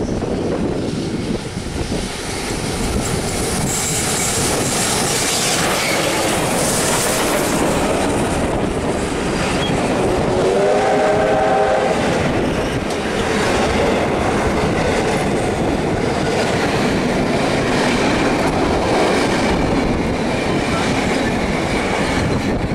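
Steam-hauled heritage passenger train of wooden carriages (Victorian Railways R761 and K190) running through a station at speed, with a steady loud rumble and wheels clattering over the rail joints. A brief wavering tone sounds about halfway through.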